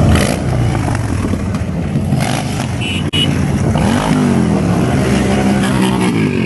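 Motor vehicle engines running close by. About four seconds in, one engine rises and falls in pitch, a rev or a pass.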